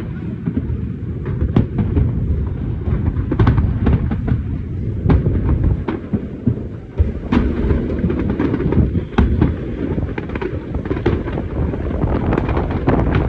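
A fireworks display: shells bursting one after another in sharp bangs and cracks over a continuous low rumble of booms.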